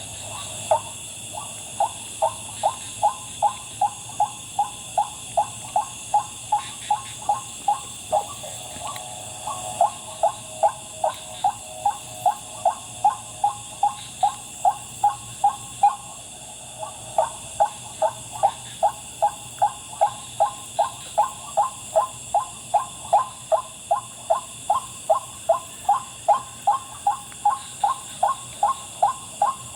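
White-breasted waterhen giving its repeated 'wak' call, two to three short notes a second in a steady run with a brief pause about halfway through. Insects keep up a steady high whine underneath.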